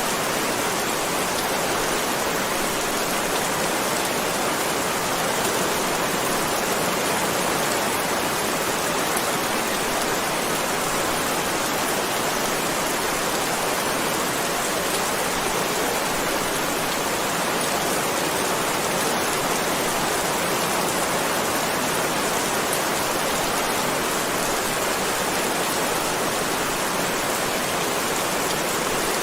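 Heavy rain falling steadily: a dense, even hiss of water that does not change, with no thunder.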